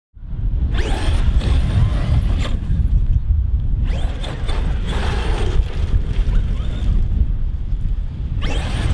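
Traxxas XRT 8S truggy's brushless electric motor and drivetrain whining under hard acceleration, rising in three bursts over a constant low rumble. The sound cuts in suddenly at the start.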